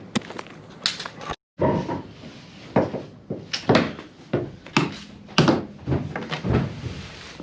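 A series of irregular knocks and clunks, a dozen or so sharp hits of different strengths, with a brief total dropout about a second and a half in.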